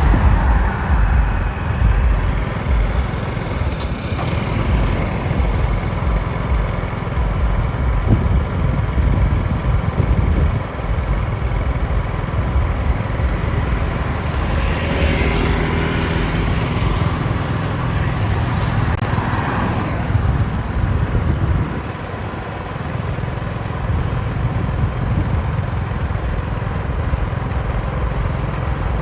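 Steady rumbling rush of heavy rain, with an engine passing by about halfway through.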